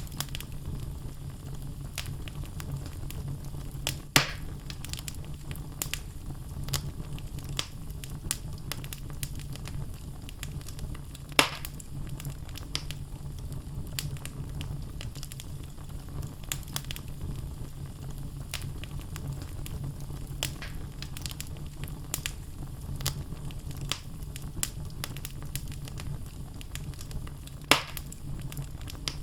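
Wood logs burning in a fireplace: a steady low rumble of flame under frequent sharp crackles. Three louder pops come about four seconds in, about eleven seconds in, and near the end.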